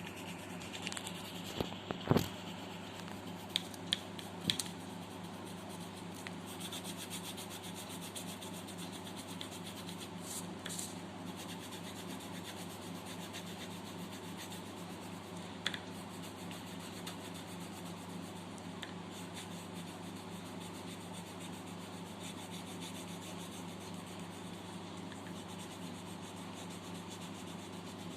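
Graphite pencil rubbing and scratching steadily on paper as a sketch is shaded, with a few sharp clicks in the first few seconds and one more about two-thirds of the way through, over a steady low hum.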